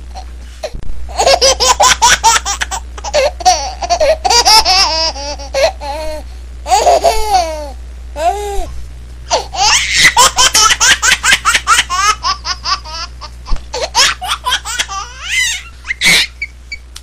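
Hearty, high-pitched laughter in quick repeated bursts, with a steady low hum underneath.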